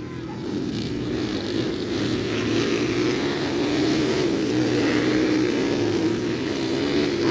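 Motocross bike engines running hard on the track, the engine note wavering with throttle and getting gradually louder as the bikes come closer.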